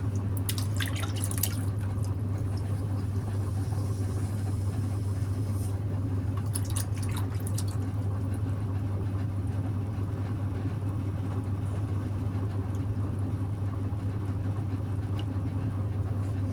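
Electric potter's wheel motor humming steadily. Brief wet, sloshy water sounds from the spinning clay and water come about a second in and again around seven seconds in.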